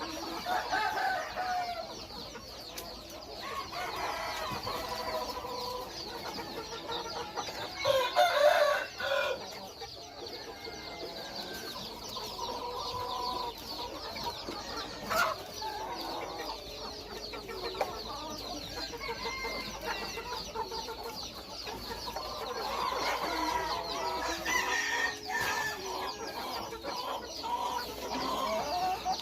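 Bantam Phoenix chickens clucking, with a rooster crowing once, loudly, about eight seconds in.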